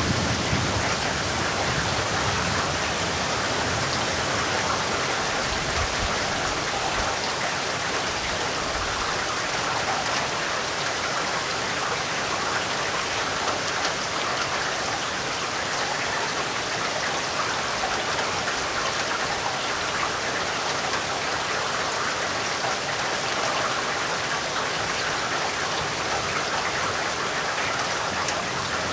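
Steady heavy rain falling and pattering on surfaces, an even hiss of drops. A low rumble dies away over the first several seconds.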